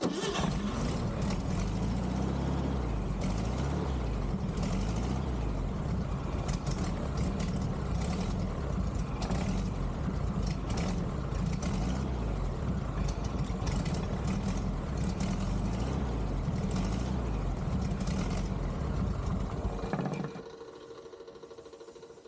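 1969 Volkswagen Beetle's air-cooled flat-four engine running roughly, with an irregular surge about once a second, then stopping about twenty seconds in. The engine runs poorly at low revs and idle, which the owner puts down to a dirty carburettor needing a rebuild.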